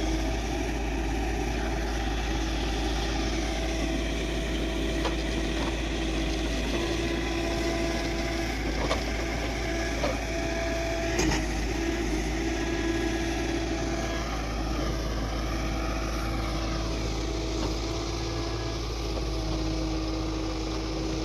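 Heavy diesel machinery running steadily during soil loading with a JCB backhoe loader and tractor, with a few short knocks around the middle.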